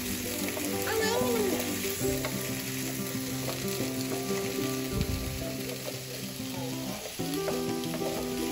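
Cubed butternut squash and red onion sizzling in a frying pan as they are stirred with a wooden spoon, with a low thud about five seconds in.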